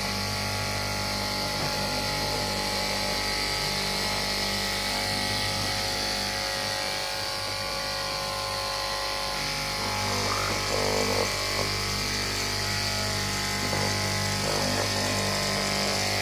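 KM electric cloth-cutting machine running steadily, its motor giving a constant hum with a higher whine above it, with a few brief irregular scratchy sounds past the middle.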